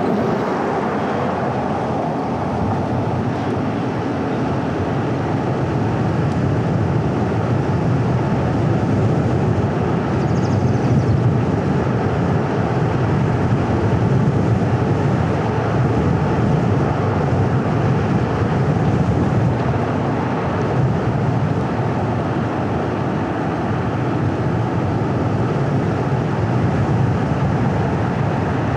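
Car driving at a steady pace: continuous tyre and road noise with a low engine hum, slightly louder in the middle.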